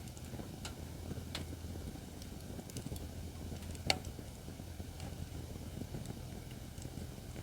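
Acacia firewood burning in a fire pit: a steady low rumble of flames with scattered crackles, and one sharp pop about four seconds in.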